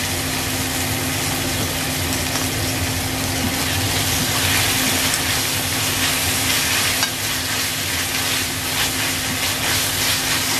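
Minced beef with chilies, shallots and tomato sizzling steadily in a hot stainless-steel pan, stirred with a spatula that scrapes and pushes the mixture across the pan.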